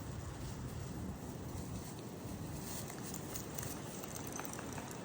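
Two dogs playing: faint scuffling and light pattering of paws, with a few soft ticks over a steady background hiss.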